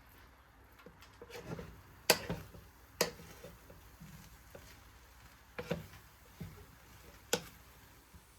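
Kitchen work sounds: a handful of sharp knocks and clicks spread over several seconds, the loudest about two seconds in.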